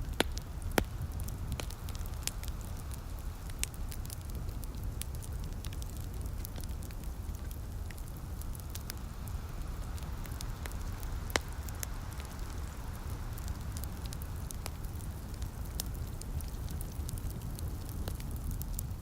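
Wood fire in a fireplace crackling, with many sharp pops scattered throughout, the loudest near the start and just past the middle. Beneath it sit a steady low rumble and a soft rain hiss.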